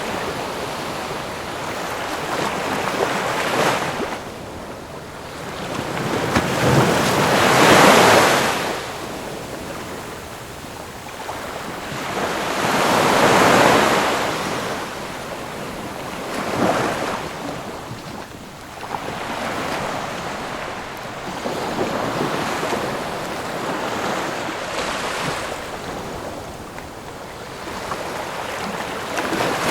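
Ocean waves breaking on a shore, the surf noise swelling and fading every few seconds, with the biggest surges about a quarter and about halfway through.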